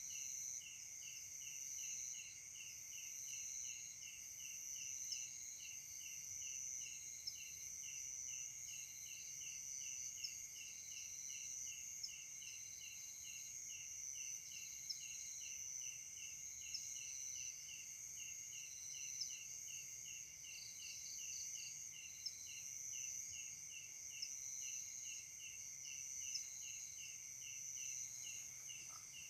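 Night insect chorus: a cricket chirping in an even rhythm of about three chirps a second, over steady higher-pitched trilling from other insects.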